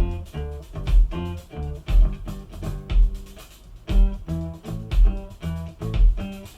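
Guitar-led music with bass and a deep beat about once a second, played through Edifier S2000 MkIII bookshelf speakers and picked up by a camera's built-in microphone.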